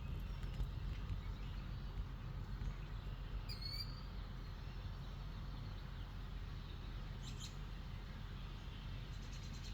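Outdoor evening ambience: a steady low rumble, with one brief bird call about three and a half seconds in.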